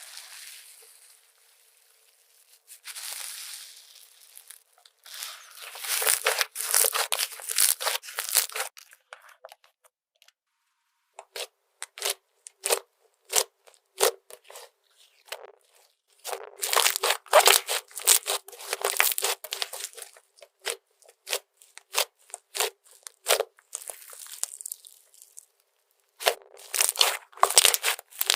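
Slime being pressed and poked by hand, giving sharp crackling pops: dense runs of snaps with single clicks between them.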